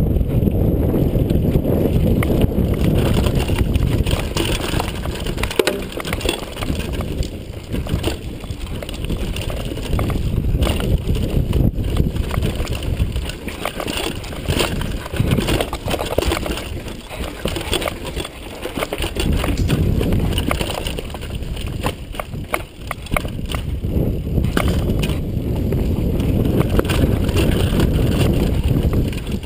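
Mountain bike descending a downhill trail: a steady low rumble of wind and tyres on dirt, with many rapid clicks and knocks from the bike rattling over rough ground.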